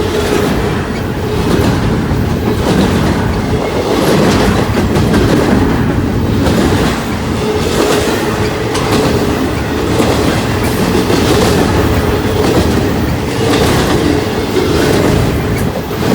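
Freight train cars rolling past close by, wheels clacking steadily over the rail joints, with a thin steady squeal from the wheels.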